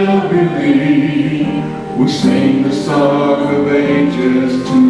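Church worship singing: a group of voices singing a slow contemporary worship song, holding long notes.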